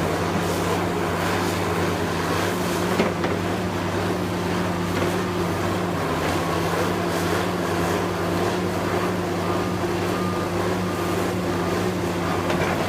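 Heavy demolition machinery's diesel engine running steadily at a constant pitch, with one faint knock about three seconds in.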